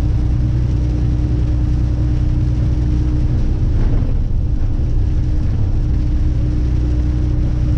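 Semi truck driving in the rain, heard from inside the cab: a steady engine and road drone with a constant hum, under an even hiss of rain and spray.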